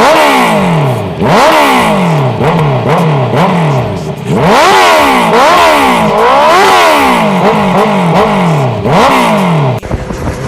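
Superbike with a loud aftermarket exhaust being revved repeatedly while standing, a dozen or so quick throttle blips, each rising sharply in pitch and falling back. It cuts off just before the end.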